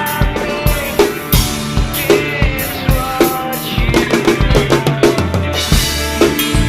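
Acoustic Tama drum kit with UFIP cymbals, played with kick, snare and cymbal strokes along with a rock band recording in an instrumental passage without vocals.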